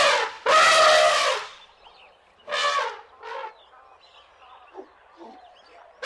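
Asian elephants trumpeting: two long, loud blasts in the first second and a half, two shorter calls around three seconds in, then a few faint brief squeaks.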